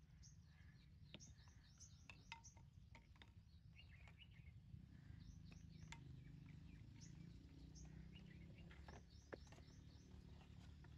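Faint small birds chirping on and off, with a few light clicks of small paint jars being set into a clay bowl.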